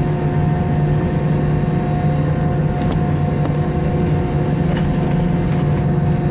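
Steady drone of an Airbus A321 airliner heard from inside, its engines and air systems running at a constant pitch with a low hum and several higher steady tones.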